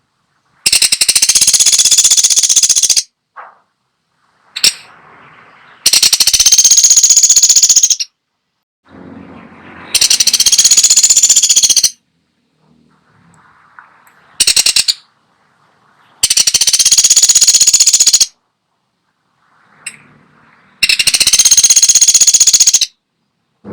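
Woodpecker giving five fast rattling bursts, each about two seconds long, with short quiet gaps between them.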